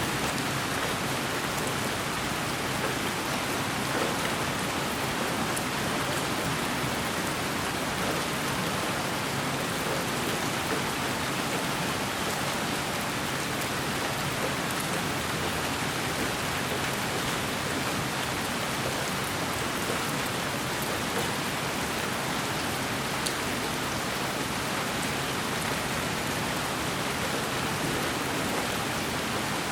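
Steady white noise for sleep: an even, unchanging hiss spread from low to high pitches, with faint scattered ticks in the highest part.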